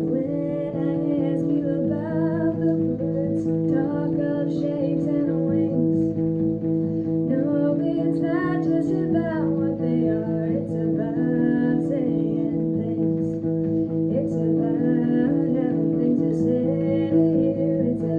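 A solo voice singing a slow melody over acoustic guitar chords, live and unedited. The chords change every couple of seconds.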